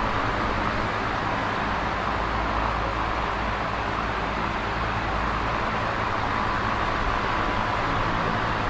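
Electric fan running: a steady rush of air with a faint low motor hum beneath.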